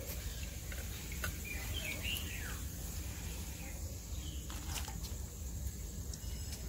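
Birds chirping, with short falling-pitch calls about two seconds in and again around four and a half seconds, over a steady low background hum; a couple of faint clicks in between.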